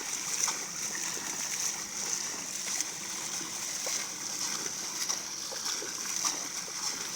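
Steady rushing of flowing rainwater, with small splashes scattered through it.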